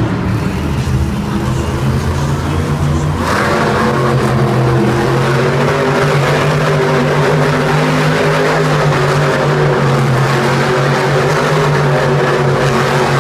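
Monster truck engines running loud and steady, with the engine noise growing louder and harsher about three seconds in as the throttle opens.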